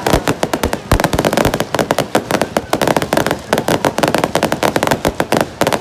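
Fireworks going off in a rapid, continuous string of sharp bangs and crackles, many a second.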